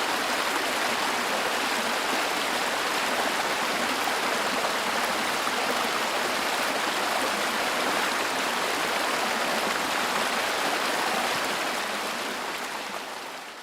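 The Danube in flood, its fast water rushing steadily, fading out near the end.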